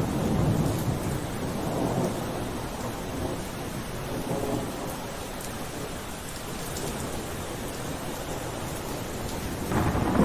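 Steady rain with a low rumble underneath that swells about half a second in and again near the end.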